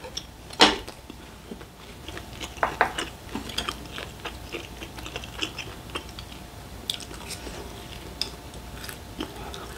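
Close-miked chewing and mouth sounds of a person eating grilled food, with a couple of sharp clicks near the start and many small irregular clicks after.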